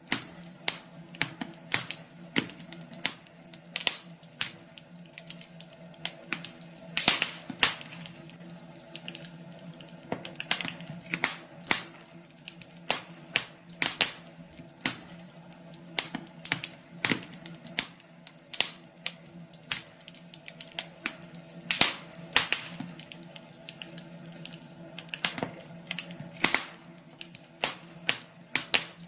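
Fire crackling in a fireplace: irregular sharp pops and snaps, several a second, over a low steady hum.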